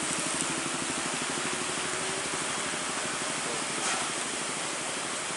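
Heavy tropical downpour: a steady, dense hiss of rain falling on a wet road.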